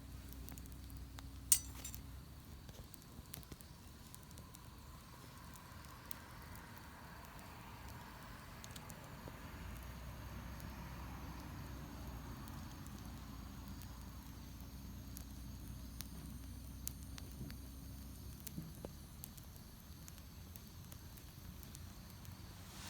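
Wood campfire burning and crackling, with scattered pops and one sharp pop about a second and a half in. A faint low hum comes and goes in the background.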